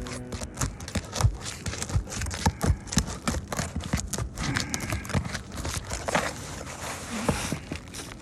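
Irregular knocks, clicks and scraping of a wind-damaged roof shingle being worked loose and pried off the roof decking, with a longer scrape about six seconds in.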